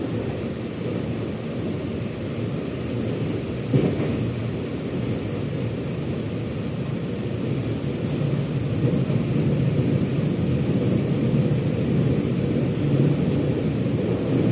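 Metro train running, a steady low rumble of wheels and motors with a single sharp knock about four seconds in, growing a little louder in the second half.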